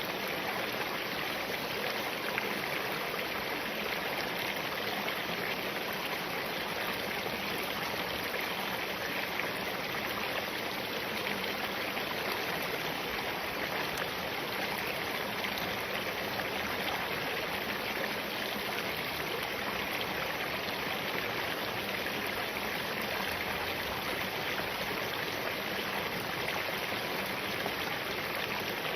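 Spring-fed mountain stream running over and between rocks: a steady, even rush of flowing water.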